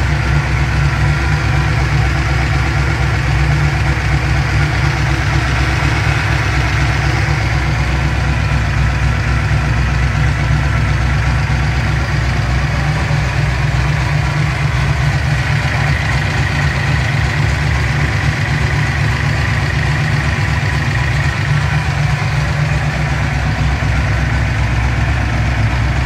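The 1988 Mustang GT's modified 306 cubic-inch small-block Ford V8 idling steadily, heard up close at the open engine bay.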